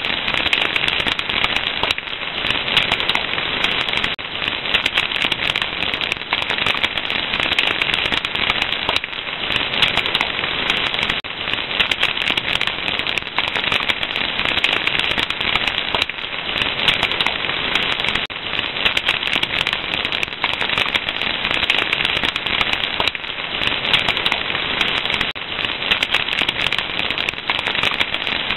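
A fire crackling steadily, with dense small pops and snaps over a constant hiss.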